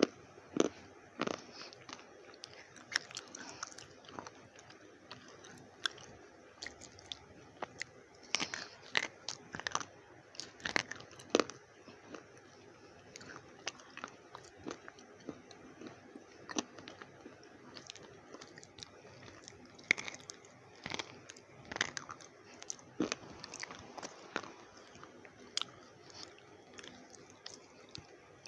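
Slate pencils being bitten and chewed, a long run of sharp, irregular crunches with busier stretches now and then.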